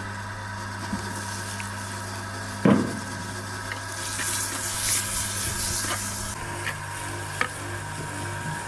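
Food sizzling in a pan over a wood fire, the hiss swelling for a couple of seconds midway, with a few sharp knocks or crackles, the loudest about a third of the way in.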